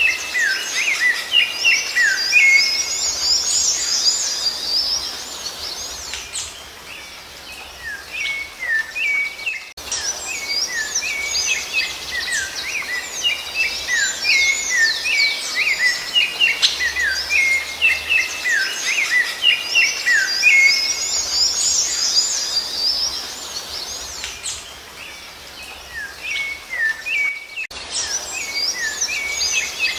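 Rufous-bellied thrush (sabiá-laranjeira) singing: phrases of short falling whistled notes with quicker high twittering above them, coming in long stretches broken by two brief lulls.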